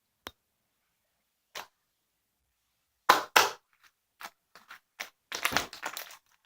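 Sharp clicks and cracks: single ones about a third of a second and a second and a half in, a loud pair about three seconds in, then a quick cluster of clicking and crackling near the end.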